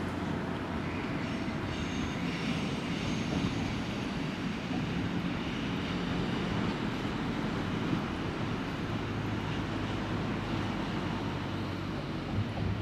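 Passenger train moving through a station platform area, a steady low rumbling hum with a faint high whine in the first few seconds.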